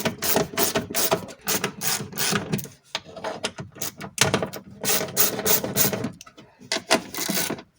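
Ratchet wrench clicking in quick runs as it undoes the bolts and nuts holding a car door's window regulator, with short pauses about three seconds in and again just after six seconds.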